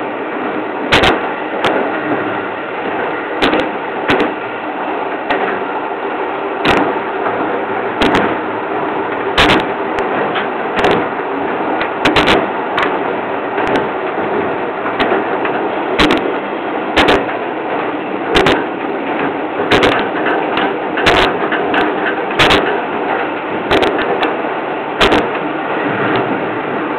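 Train running, heard from the driver's cab: a steady rumble with a faint hum, and sharp clicks from the running gear coming about once a second, some in quick pairs.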